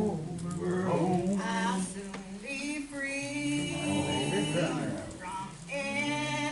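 Gospel hymn being sung, with long held notes.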